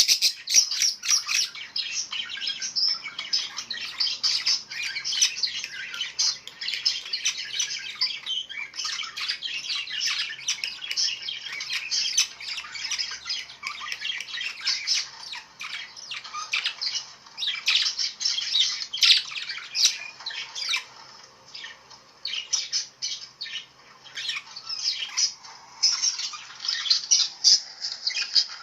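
Many small birds chirping and calling together in a dense, continuous chorus of rapid high-pitched notes, thinning for a few seconds about three-quarters of the way through before picking up again.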